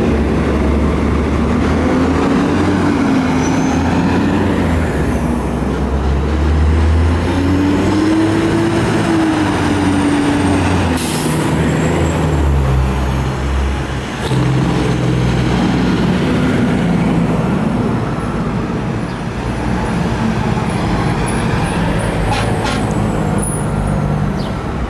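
Fire trucks passing in a parade, their diesel engines rumbling under a mechanical siren that slowly winds up and down in pitch, with held air-horn blasts.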